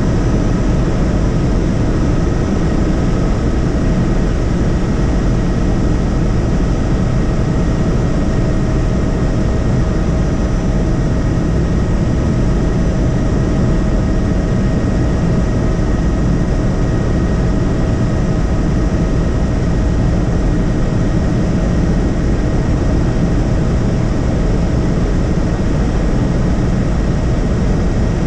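Helicopter in flight: steady engine and rotor noise, with a few thin steady whining tones over it.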